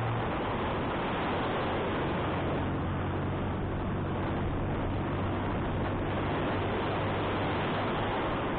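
Wind rushing over the microphone of a motorcycle climbing uphill, with the engine's steady low drone underneath; the engine note drops slightly just after the start.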